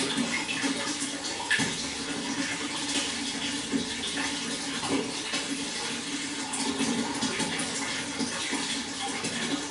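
Water flowing steadily, with continual small splashes and gurgles.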